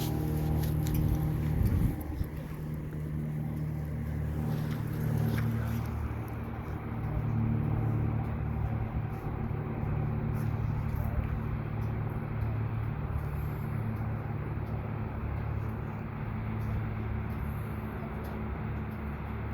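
An engine running steadily at a low, even note, which changes briefly about two seconds in.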